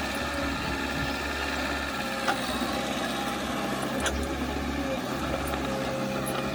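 Diesel engine of heavy earthmoving equipment running steadily, with two sharp knocks about two and four seconds in.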